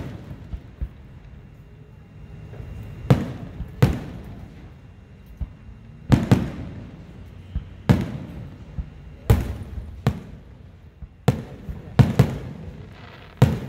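Aerial fireworks shells bursting overhead: about ten sharp booms, irregularly spaced a second or so apart, some in quick pairs, each with a short echoing tail.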